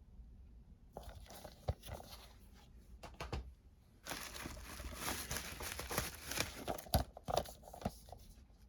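Packaging being unwrapped by hand: irregular crinkling and tearing, densest in the middle, with a couple of sharp clicks.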